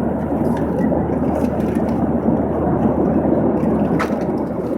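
Steady roar of an airliner cabin in flight, the engines and airflow heard from inside the plane, with one short click about four seconds in.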